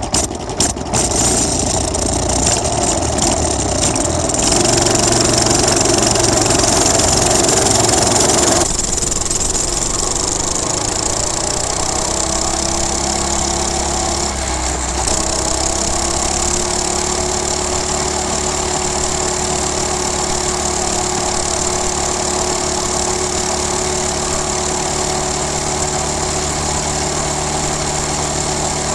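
Coleman CT200U minibike's single-cylinder four-stroke engine running hard at full throttle for about nine seconds, then the throttle drops off suddenly and the engine settles into a steady, lower, even run for the rest.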